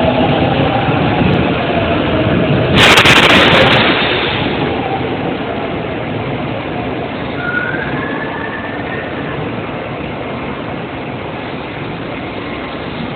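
Train running at a station platform with a steady rumble. About three seconds in there is a sudden loud rush of noise lasting about a second, then the running noise slowly fades. A faint whine rises and falls near the middle.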